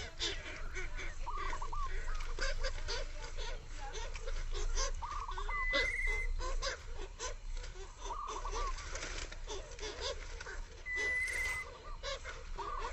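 Birds calling: short honk-like calls repeating every few seconds over a busy chatter of lower calls and clicking, with two brief high trills.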